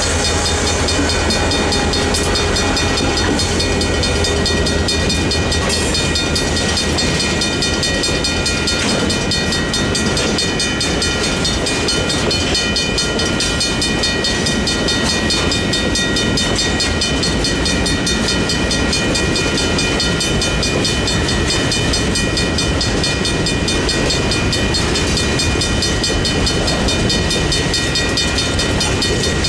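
Freight train rolling through a grade crossing, the cars rumbling and clattering over the rails, while the crossing's mechanical bells ring without a break.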